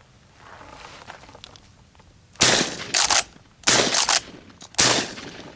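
A quick string of loud shotgun blasts, about four or five over two and a half seconds, starting a couple of seconds in.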